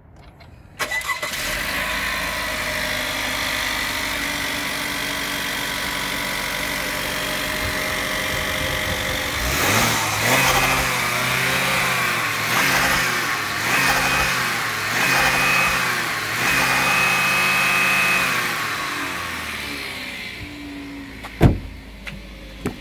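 2018 Holden Commodore's 2.0-litre turbocharged four-cylinder petrol engine starting about a second in, idling steadily, then revved up and back down several times before settling. A sharp thump comes near the end.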